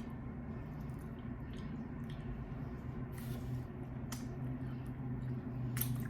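Close-miked eating of Wingstop chicken wings: wet, squishy chewing and mouth sounds, with a few short sharp clicks about three, four and six seconds in, over a steady low hum.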